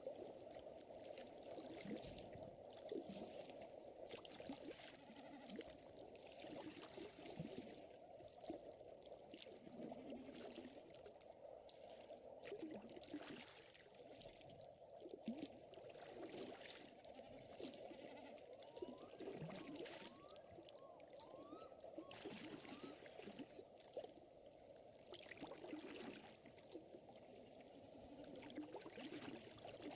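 Faint lakeside ambience: water lapping and trickling, mixed with the gentle crackle of a campfire in scattered pops. A few short, faint chirps come about two-thirds of the way through.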